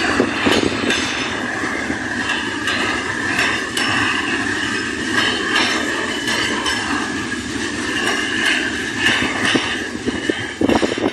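Diesel train running along the rails: a steady rumbling clatter with a sustained high-pitched squeal. Near the end it turns into a string of sharper knocks.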